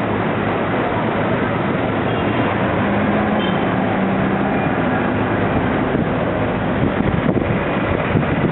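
Road traffic passing: a steady, dense noise of engines and tyres, with one vehicle's engine hum standing out for a second or two in the middle.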